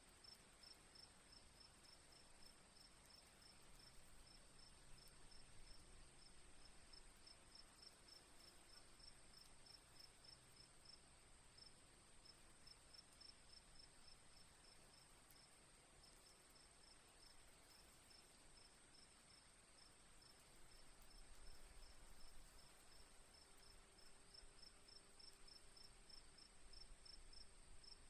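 Faint chorus of crickets: a steady high trill with a rapid, even chirping of several pulses a second.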